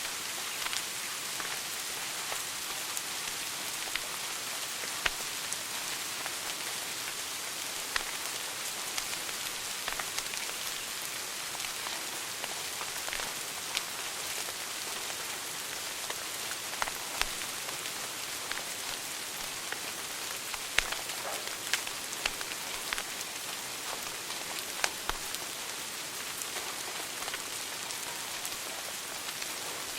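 Wood fire burning in a fireplace: a steady hiss with irregular crackles and sharp pops scattered through it.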